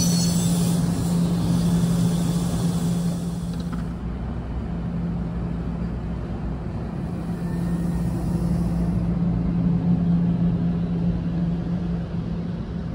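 NJ Transit bi-level commuter train pulling out and rolling past, a steady low hum over the rumble of its wheels. A high hiss fades about four seconds in.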